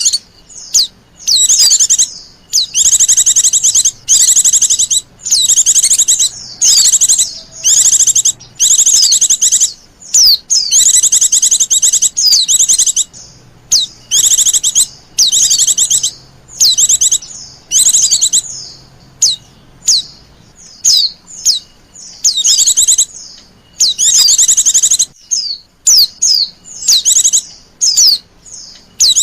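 White-eye (pleci) calls: loud, high twittering phrases with a fast trill, each lasting about half a second to a second and a half, repeated one after another with short gaps. This is the kind of call played as a lure to attract wild white-eyes.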